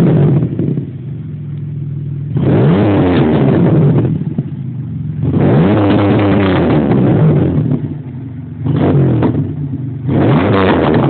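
2002 Pontiac Grand Prix GT's 3.8-litre V6 running through a dual exhaust, revved about four times in short bursts between idle. Each rev rises in pitch and falls back. The car is loud.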